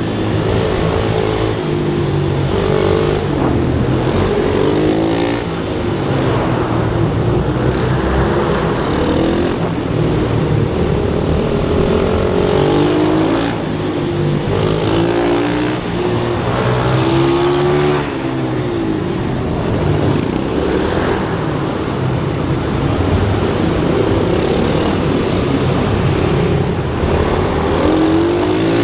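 Small single-cylinder racing motorbike engine revving hard and easing off again and again as it laps a track, its pitch climbing through each burst and dropping away every couple of seconds.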